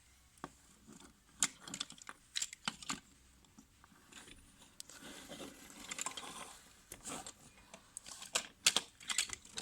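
Hard plastic transforming toy robot being handled and posed: scattered sharp clicks and knocks from its jointed plastic parts, with a soft rustle about halfway through and a quick run of clicks near the end.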